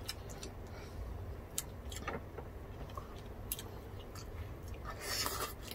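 Close-miked chewing of grapes: soft wet mouth clicks and squelches, with a short hiss near the end.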